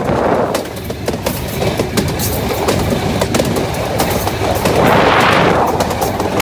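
Train running along the track: wheels clicking and clattering over the rails over a steady rumble and rushing noise. The rushing swells louder about five seconds in.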